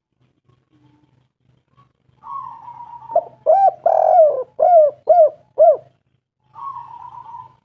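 Spotted dove cooing: a soft rolling coo, then a run of about six loud, arched coo notes, and another soft rolling coo near the end.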